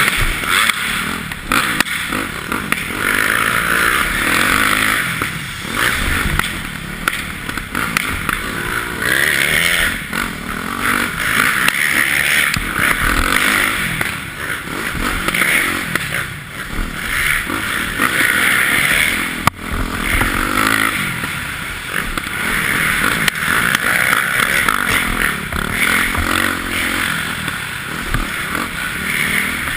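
Yamaha YZ450F four-stroke single-cylinder motocross engine being ridden hard, revving up and backing off over and over.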